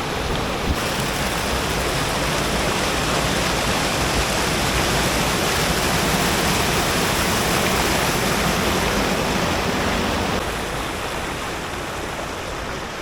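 Mountain creek water rushing over rocks in a steady wash, easing a little about ten seconds in.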